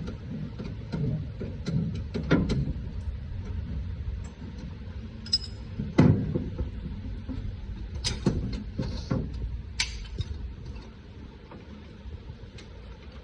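Scattered metal clanks and knocks of hand tools and parts during work on a pickup's rear brakes, over a steady low rumble; the loudest knock comes about halfway through, with a quick run of clanks soon after.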